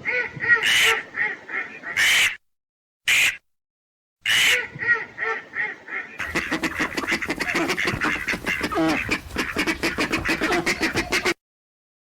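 Domestic ducks quacking: separate calls in short bursts broken by sudden silences, then a fast, dense run of many quacks in the second half that cuts off abruptly.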